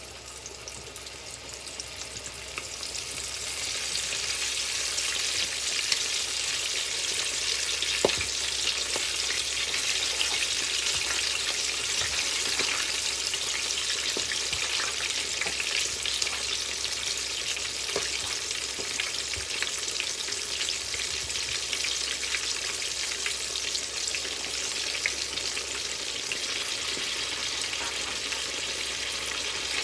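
Flour-dredged chicken frying in hot oil in a cast iron skillet: a steady sizzle that swells over the first few seconds as the pieces go in, with a few light clicks.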